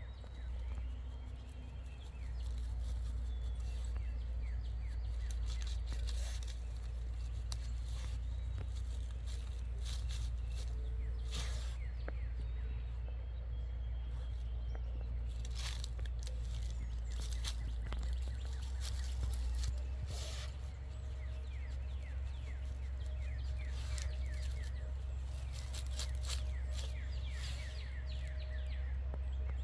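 A dog digging and scratching in soft dirt, in irregular short scuffs, over a steady low rumble. Birds chirp in the background, most busily near the end.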